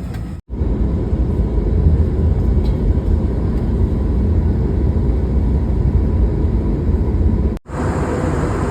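Steady low rumble of a vehicle in motion, broken by two abrupt cuts, about half a second in and about a second before the end.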